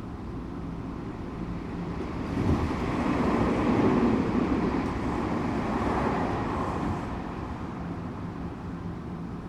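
Tokyu 8500 series electric train running, a steady rumble of wheels and running gear. A louder rushing swell rises about two seconds in and fades away by about seven seconds.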